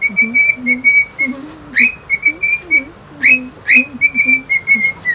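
A pet bird whistling: quick runs of short, clear notes on one pitch, broken every second or so by a fast upward-sweeping whistle.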